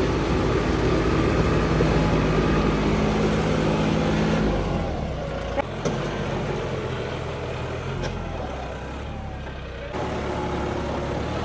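Diesel tractor engines running with a steady, pitched drone; the sound drops and changes abruptly a little before halfway through, and again near the end.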